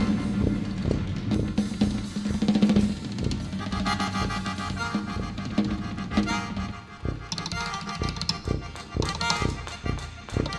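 Instrumental jazz ensemble music with the drum kit to the fore: snare and bass drum hits over a low held note. About two-thirds of the way through, the low note stops and higher sustained chords come in.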